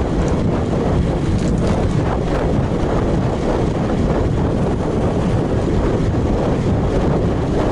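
Steady wind noise buffeting an action camera's microphone on a road bike in motion, a loud rushing that stays even throughout.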